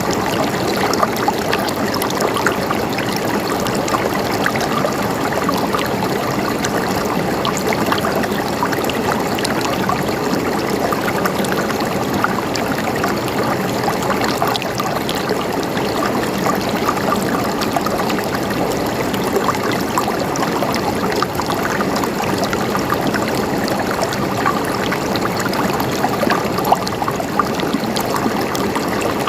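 River water flowing steadily over rocks, a continuous rushing with many small splashes and trickles.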